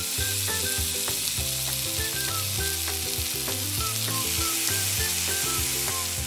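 Hot oil sizzling in a miniature frying pan as small chopped pieces of food fry and are stirred with a tiny spoon. Light background music plays underneath, and the sizzle cuts off abruptly near the end.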